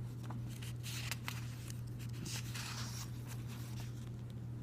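Paper instruction pamphlet being handled, its pages rustling and crinkling with small clicks, over a steady low hum.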